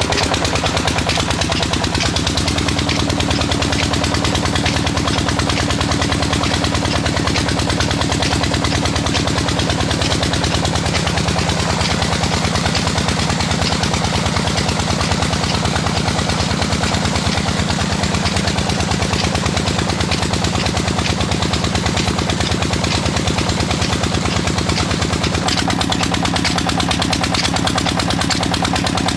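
A 25 hp Petter diesel engine running steadily while driving a tubewell pump, with an even, rapid beat of firing strokes.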